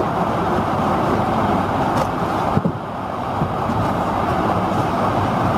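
Steady rushing cabin noise inside an Airbus A220-100 airliner that has not yet started its engines, with a single click about two and a half seconds in.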